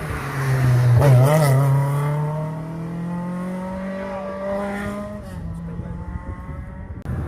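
Ford Escort Mk2 rally car engine at high revs, its note climbing steadily as the car accelerates, then dropping about five seconds in as it lifts or changes gear.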